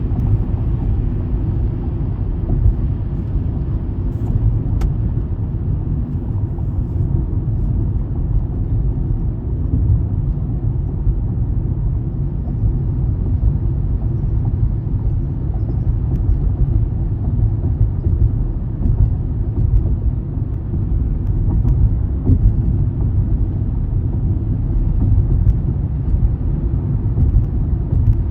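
Car driving at a steady pace: a continuous low road-and-engine rumble.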